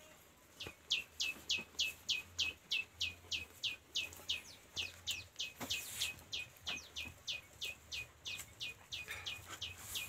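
A bird calling over and over: a fast, even series of short notes, each sweeping down in pitch, about three a second.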